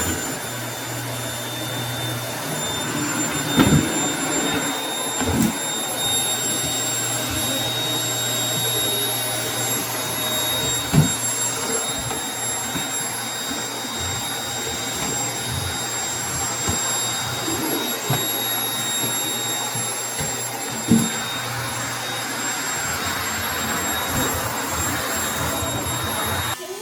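Household vacuum cleaner running steadily with a thin high whine over its rushing air, broken by a few short sharp knocks.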